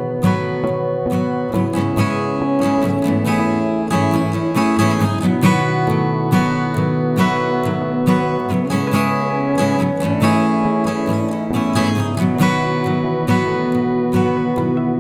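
Acoustic guitar music, strummed and plucked chords at a steady pace.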